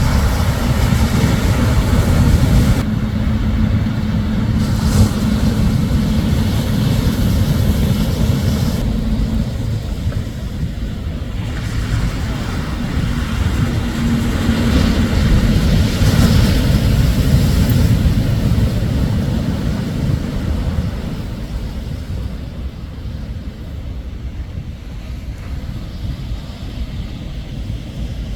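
Shorebreak waves crashing and washing up the beach, with wind rumbling on the microphone. The sound swells and eases and quietens after about twenty seconds.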